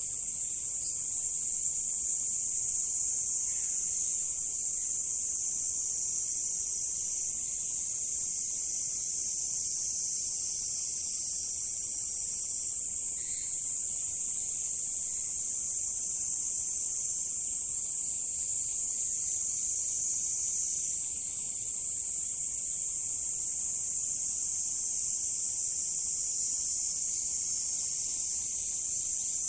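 Insect chorus: a steady, high-pitched, unbroken buzzing shrill, with a few faint short calls below it.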